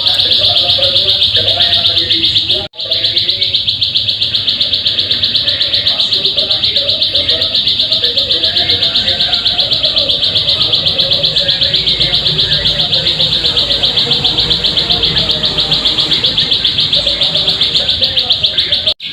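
Ciblek sawah (a prinia) singing a loud, high, rapid trill of fast-repeated notes, kept up almost without pause. It breaks off abruptly about three seconds in and again near the end.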